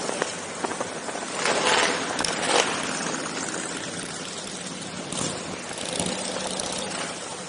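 Motorcycle engines running at low speed in a group ride, with brief louder rushes about one and a half and two and a half seconds in.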